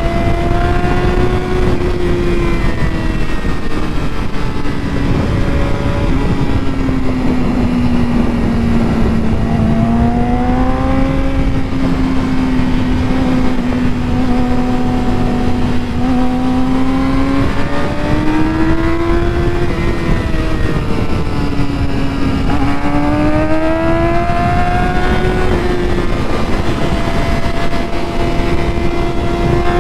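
Sport motorcycle engine under way, its note rising and falling with the throttle through the turns and dropping at each gear change, over steady wind rush.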